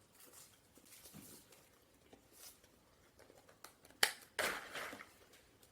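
Faint close-up eating and handling sounds, with a sharp click about four seconds in followed by a short rustling burst.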